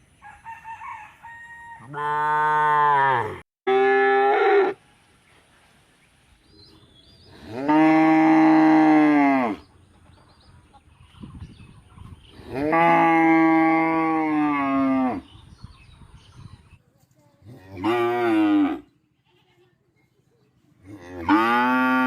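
Cow mooing over and over: about six long, low calls with pauses between them, the longest held for two seconds or more.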